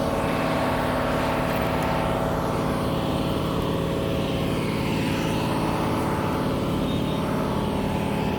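Semi truck's diesel engine running at a steady idle.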